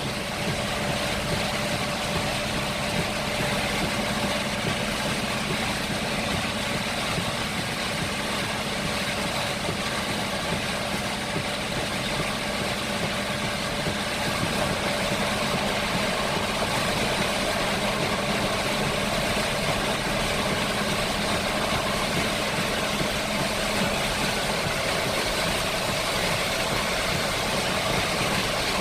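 Heavy rain falling steadily, a dense even hiss, with a faint steady hum underneath.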